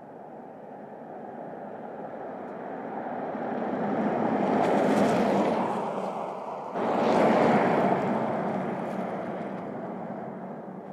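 BMW X6 driving past: the tyre and engine noise swells to a peak about five seconds in, dips, then jumps back up abruptly at about seven seconds and fades away.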